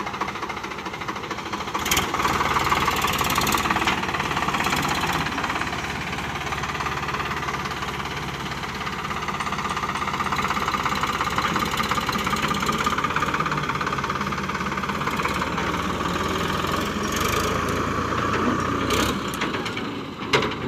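Sonalika DI 750 tractor's diesel engine running steadily, getting louder about two seconds in and holding there.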